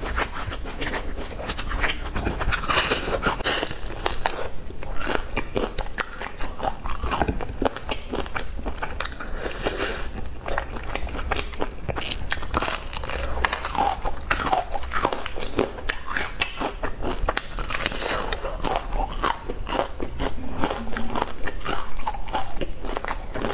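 Biting and chewing through crispy deep-fried breaded coating, close to the microphone: dense, irregular crunching and crackling that goes on throughout.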